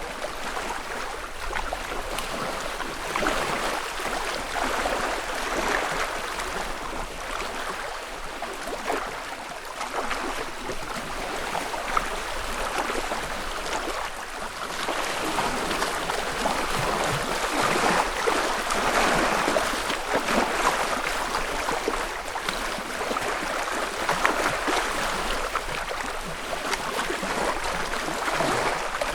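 Small lake waves lapping and washing against the shore, swelling and easing every few seconds.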